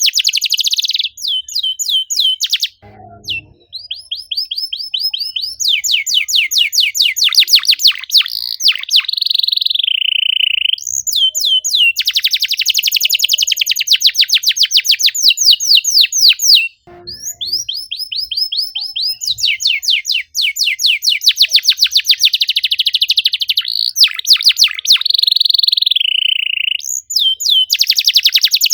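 Domestic canary singing a long, fast song: rapid trills of repeated high chirps, a few notes a tenth of a second apart, in long phrases broken by two short pauses.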